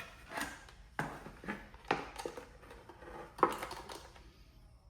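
A series of irregular sharp knocks and clacks of hard objects being handled and set down, the loudest about three and a half seconds in, with no motor running.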